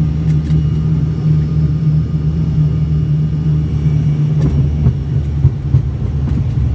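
Steady low drone of the ATR 42-300's twin turboprop engines and propellers heard inside the passenger cabin, a constant hum with faint steady higher tones over it.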